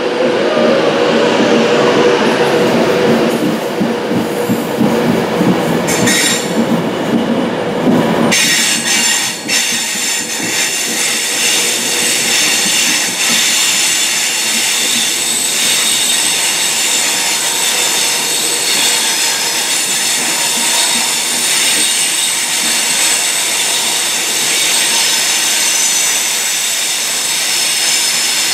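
Virgin Trains passenger train rolling slowly along a curved station platform: lower-pitched running noise for the first eight seconds or so, then from about eight seconds in a steady high-pitched wheel squeal from the curve.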